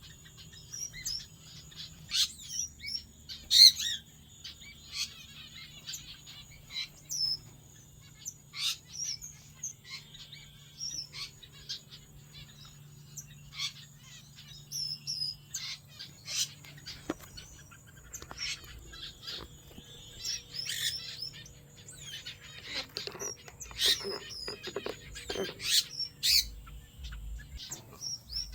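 A mixed flock of small aviary finches calling: many short, high chirps and peeps overlapping, with a faint steady low hum underneath.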